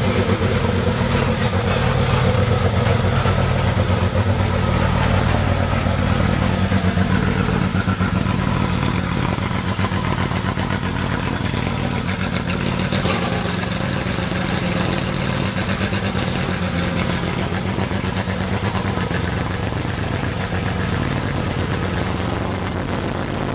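Porsche 911 GT3 Cup car's flat-six engine idling steadily through its exhaust.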